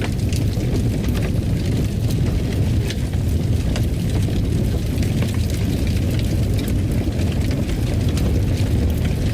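Fire burning in a fireplace: a steady low rumble of flames with scattered crackles and pops.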